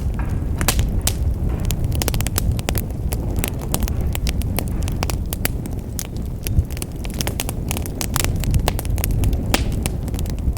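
Wood fire burning in a fireplace: a steady low rumble of flames with frequent sharp crackles and pops from the burning logs, one pop louder than the rest past the middle.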